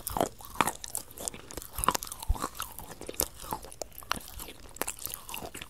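A person chewing crunchy food close to the microphone: irregular sharp crunches, roughly two a second, with wet mouth sounds between them.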